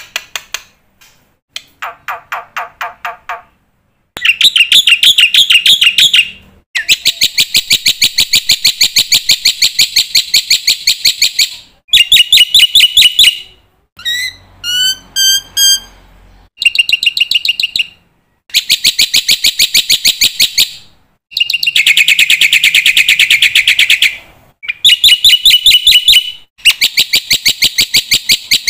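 Black-winged starling (jalak putih) singing hard: loud bouts of rapid, evenly repeated chattering notes lasting a few seconds each, separated by short pauses, with a short run of separate gliding whistles about halfway through.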